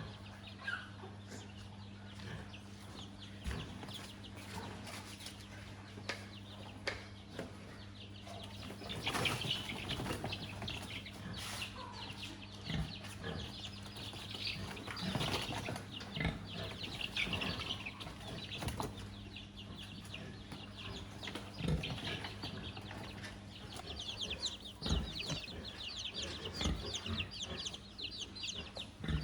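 Chickens clucking and moving about, with wings flapping and scattered taps and knocks. A steady low hum runs underneath.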